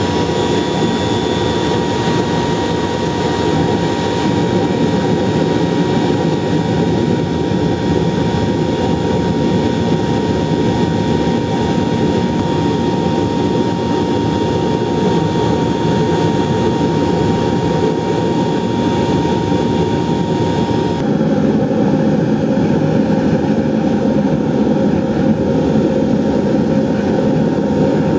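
Propane-fired foundry furnace burner with a forced-air blast running steadily while it heats a bronze melt: a constant rushing burner noise. A thin steady whistle sits over it and stops about three-quarters of the way through.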